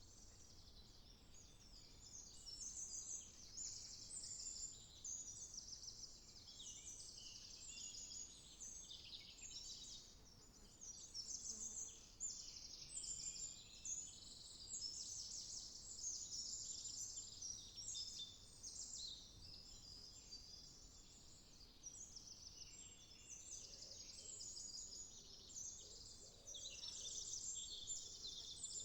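Morning chorus of several songbirds chirping and trilling over one another: a dense, unbroken stream of quick high notes, fairly faint.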